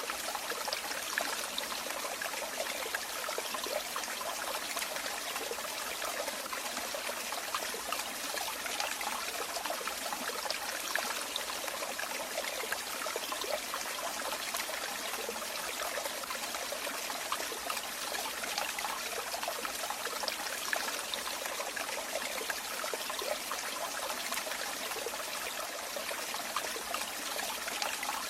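Running water trickling and splashing in a steady, unbroken rush, with many small splashes and no change in strength.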